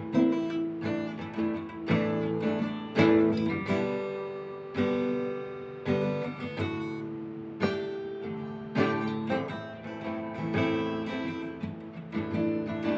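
Music: an acoustic guitar playing chords, struck about once a second and left to ring.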